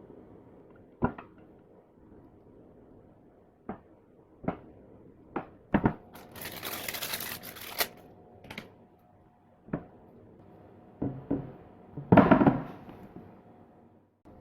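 Workshop handling sounds of engine parts and packaging: scattered sharp knocks and clicks, about two seconds of crinkling or tearing some six seconds in, and a louder clatter about twelve seconds in.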